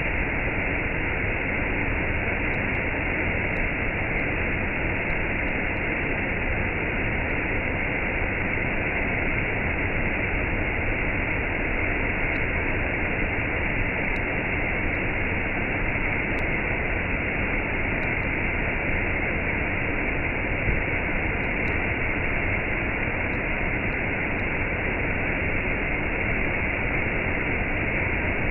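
Waterfall and cascade: water pouring and rushing in a steady, unbroken noise, dull in tone with no high hiss.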